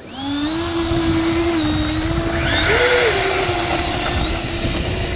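Electric ducted-fan motors of RC jets, including a twin-70mm fan jet, whining at high throttle for takeoff. The whine rises quickly at the start and then holds steady, and a second fan's higher whine with a loud rushing hiss swells briefly about halfway through.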